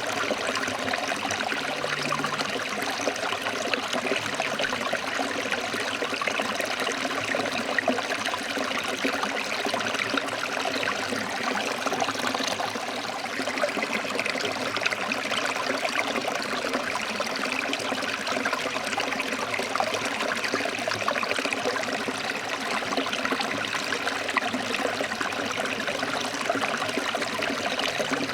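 A stream of water flowing and splashing over rocks, with a steady, even rushing babble.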